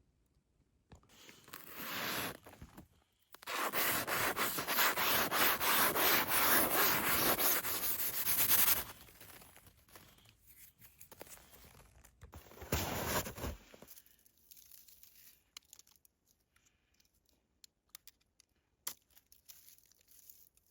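Rubbing, scraping noise in three spells: a short one about a second in, a long, loud stretch of rapid strokes from about three and a half to nine seconds, and a brief burst near thirteen seconds, with a few faint clicks after.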